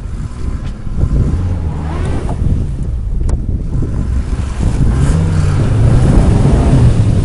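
Off-road vehicle engine running, its pitch rising and getting louder about five seconds in, with wind buffeting the microphone.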